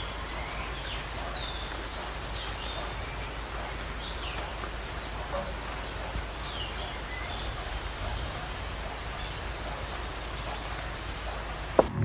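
Birds chirping and whistling in short calls over a steady low background noise, with a quick high trill about two seconds in and again near the end.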